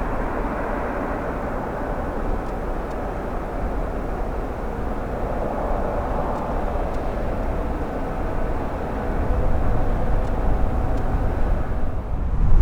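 Bombardier CRJ700 regional jet's turbofan engines heard at a distance as a steady rushing noise, growing louder about nine seconds in.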